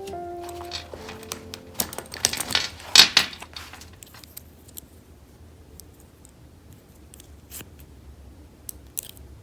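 Hands handling small objects: a burst of rustling and scraping about two seconds in, then scattered light clicks and taps. Soft background music plays over the first couple of seconds, then stops.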